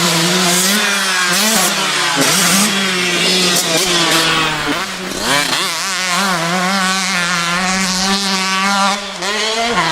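Dirt bike engine sound: a continuous buzzing note that rises and falls as the throttle is worked.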